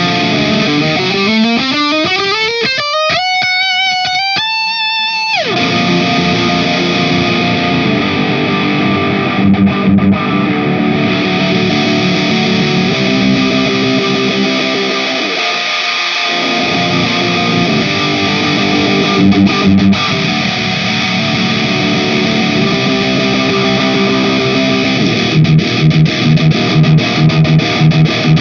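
Distorted electric guitar played through an amp-simulator and IR cabinet-loader plugin. A held note glides steadily up in pitch over the first five seconds, then gives way to heavy riffing, with a run of short, fast low chugs near the end.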